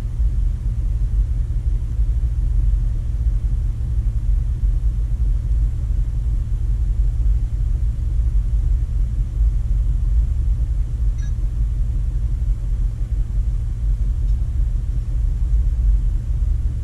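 Jeep Wrangler's engine idling steadily, a low, even rumble heard from inside the cab.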